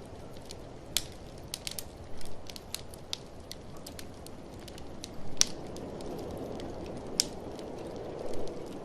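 Wood fire in a fireplace crackling, with irregular snaps and a few louder pops, over a steady rushing of blizzard wind that swells near the end.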